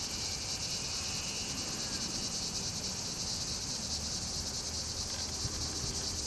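Steady high-pitched insect chorus with a fast, even pulse, continuing without a break.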